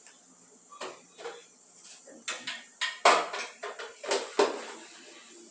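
Removable refrigerator parts such as shelves and drawers being handled and set back in place, knocking and clattering several times, the loudest knocks about three and four seconds in, with short scrapes between them.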